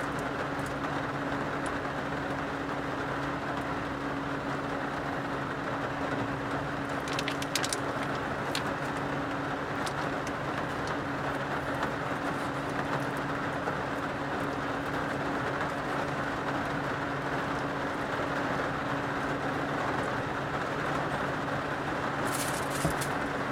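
Steady rushing noise of heavy rain around the car, over a low steady hum. A few faint ticks come about a third of the way in and near the end.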